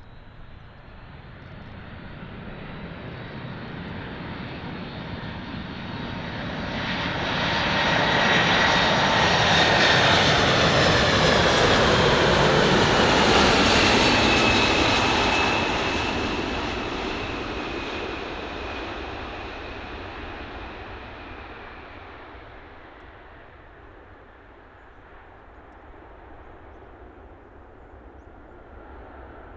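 Boeing 747's jet engines during a pass-by: the sound swells, is loudest about ten seconds in, then fades away, with high whines falling in pitch as the jet goes past.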